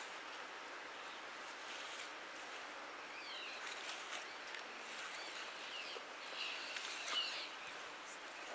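Steady outdoor hiss with small birds chirping, a run of chirps about three seconds in and a busier one about six and a half seconds in, and a few faint clicks.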